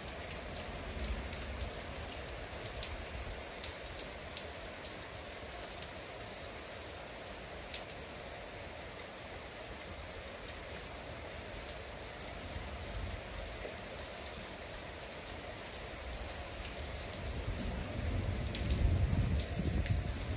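Rain falling steadily during a thunderstorm, with scattered drops ticking close to the microphone. A low rumble builds over the last few seconds.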